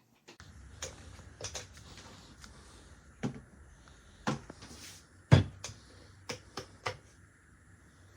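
Irregular clicks and knocks from a ceramic space heater being handled, about ten in all, the loudest a knock a little past the middle. A steady low hum runs underneath.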